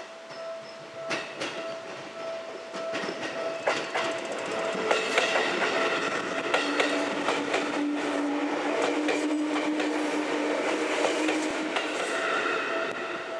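Seibu 101 series electric train going slowly past over the points, its wheels clicking over rail joints and frogs, loudest in the middle as the cars go by. A low steady hum sounds while the cars pass, under a steady thin ringing tone.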